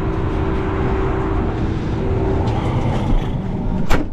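Farm machinery engine running steadily with a continuous hum, and one sharp click just before the end.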